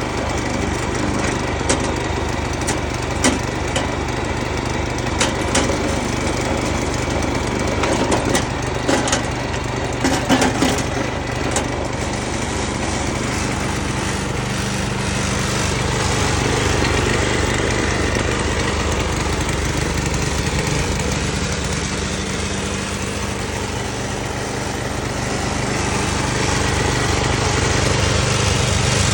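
Kubota TRS60 tractor's engine running steadily, with a string of sharp clanks and knocks through the first ten seconds or so. The engine gets a little louder about halfway through and again near the end.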